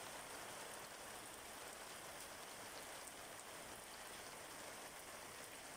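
Steady rain falling, with scattered drops ticking on wet surfaces.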